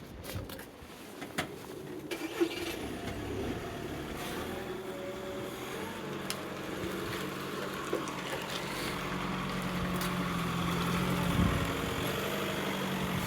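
A vehicle engine running at a steady pitch and slowly growing louder, with a few scattered sharp knocks.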